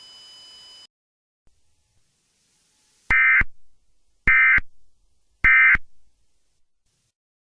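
Emergency Alert System end-of-message signal: three short SAME data bursts, each about a third of a second long and about a second apart, marking the end of the alert. A faint hiss cuts off just under a second in.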